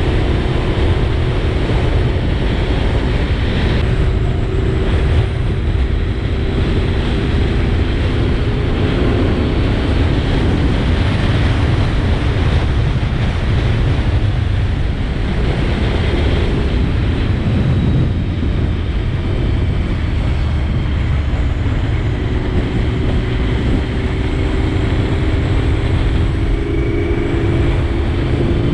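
Wind rushing over a helmet-mounted microphone with a Honda VFR 750's V4 engine running underneath while riding. The engine's steady tone is clearest at the start, fades into the wind noise for a while, and comes back in the last few seconds.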